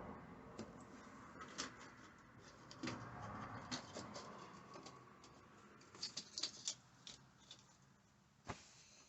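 Faint scattered clicks, taps and rustles, with a quick cluster of clicks past the middle and one sharper click near the end.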